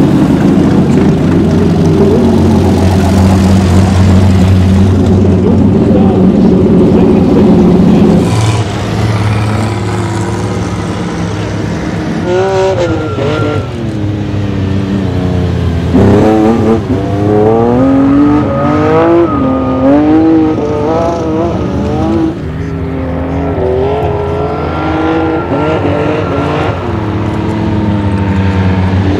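Ferrari 365 GTB/4 Daytona's V12 running hard at a steady high pitch for about eight seconds, then easing off and revving up and down again and again as the car slides through the snow.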